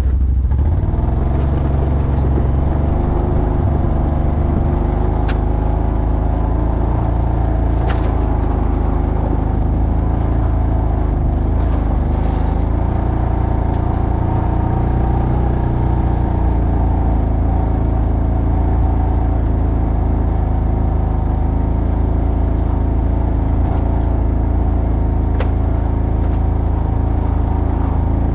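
ATV engine running at a fairly steady speed, its pitch wavering slightly, with a few faint clicks and knocks over it.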